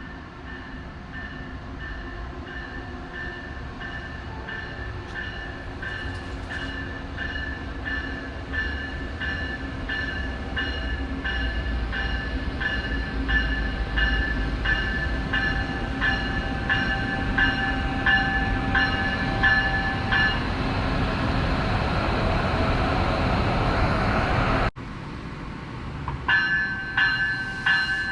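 A train approaching and passing close by with its bell ringing steadily, about one and a half strikes a second, over a rumble that grows louder. About 20 s in the bell stops and the rush of the passing train peaks; after an abrupt cut the bell is heard again, louder, near the end.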